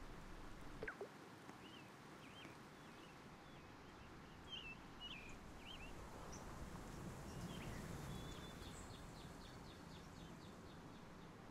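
Faint bird chirps: a series of short calls in the first half, then a quick run of ticks near the end, over a steady background hiss.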